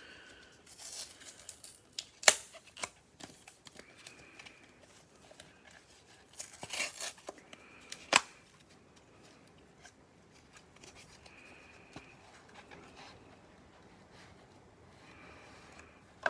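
A trading-card hanger box and its packaging being opened by hand, with bursts of tearing and rustling and two sharp snaps, one about two seconds in and one about eight seconds in.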